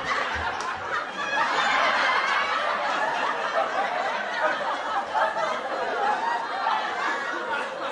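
Recorded audience laughter, a crowd laughing together, swelling about a second and a half in and slowly dying down.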